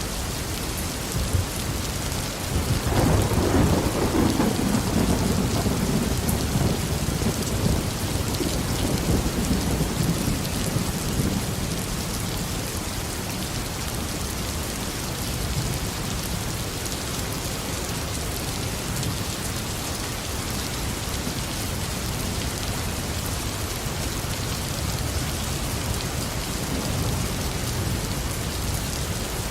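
Steady heavy tropical rain falling, with a roll of thunder that breaks a few seconds in, rumbles for several seconds and dies away, leaving the rain alone.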